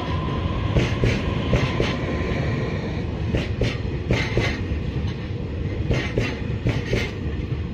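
Taiwan Railways EMU3000 electric multiple unit pulling out of the station and running past close by. A steady low rumble is broken by sharp paired clacks as each bogie's wheels cross rail joints.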